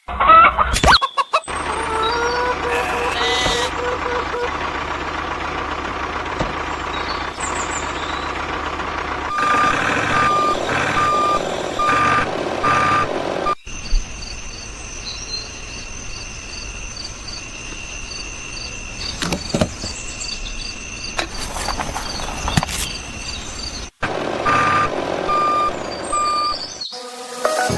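Truck engine running, with a reversing alarm beeping at an even pace, about one beep every half second or so, in two spells. Between the spells comes a stretch of steady high-pitched machine whine.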